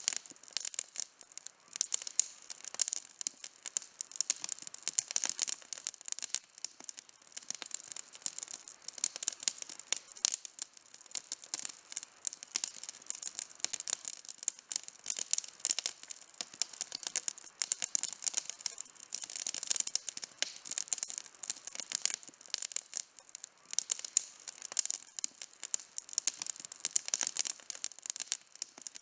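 Wood campfire burning with steady, dense crackling and frequent small pops.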